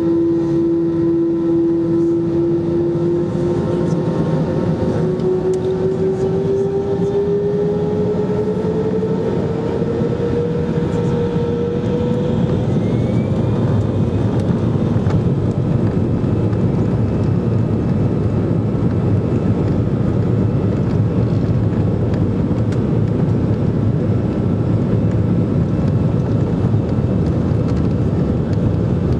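Airbus A320 jet engines spooling up to take-off thrust. A steady whine rises in pitch over several seconds, then gives way to a loud, steady rush of engine noise.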